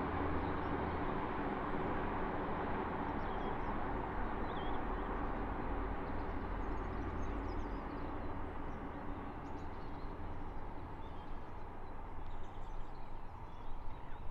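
Distant train running along the line below, a steady rumble that slowly fades as it moves away. The cameraman takes it for a Class 172 diesel unit but is not sure. A few faint bird chirps come through.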